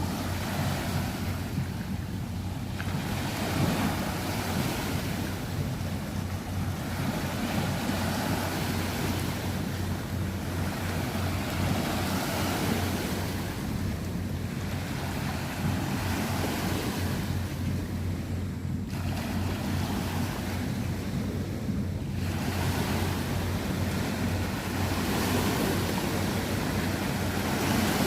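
Small river waves slapping against the bank. The splashing swells and eases every few seconds.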